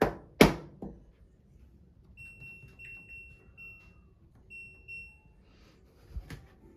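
A few sharp knocks, then a run of short, high-pitched electronic beeps in two small groups, and another knock near the end.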